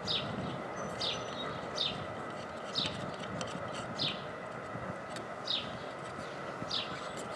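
A bird repeating a short, high, falling chirp about once a second, over a steady background hum.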